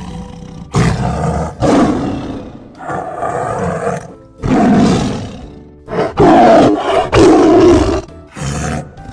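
Tiger roaring again and again, about seven loud roars of up to a second each with short gaps between them.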